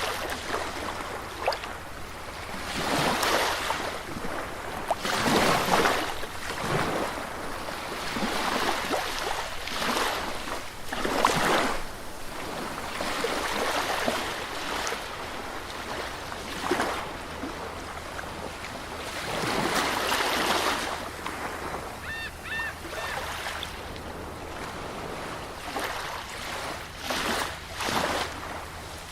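Sea surf on a beach: waves breaking and washing in, swelling and falling back every few seconds. About three quarters through, a bird gives a few short high calls.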